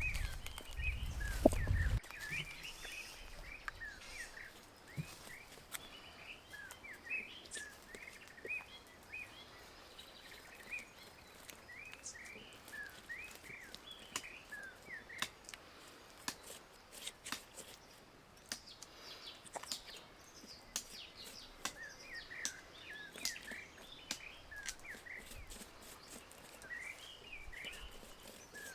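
Small birds chirping: many short, quick chirps in spells with brief pauses between them. A louder low rumble fills the first two seconds and cuts off abruptly, and faint scattered clicks run beneath the chirps.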